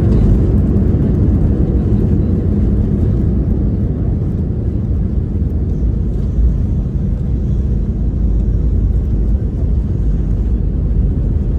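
Steady low rumble of jet airliner cabin noise: engines and airflow heard from inside the cabin.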